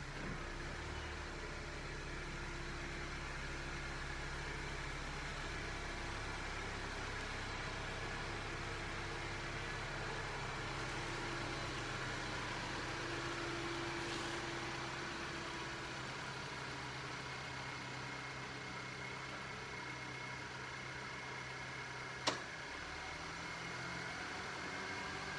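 Honda CR-V engine running at idle close by, a steady hum. A sharp click comes near the end.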